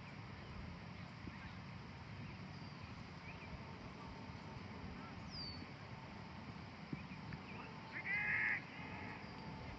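Faint outdoor background with a short, louder bird call about eight seconds in, and a few small descending chirps earlier.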